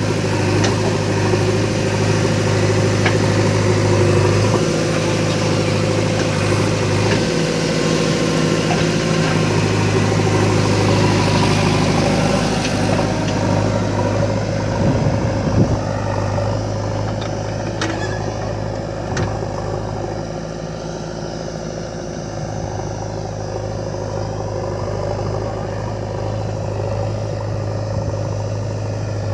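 Heavy diesel machinery engine running steadily, with a few sharp knocks around the middle.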